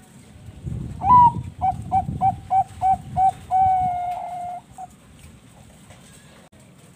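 Zebra dove (Bangkok-bred perkutut) singing one full song: an opening bending note, a quick run of about seven short clipped coos, and a long held final coo.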